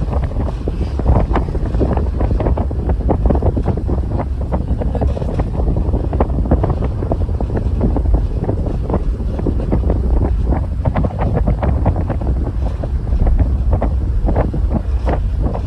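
Wind buffeting the microphone aboard a ferry at sea: a loud, continuous low rumble with irregular crackling gusts.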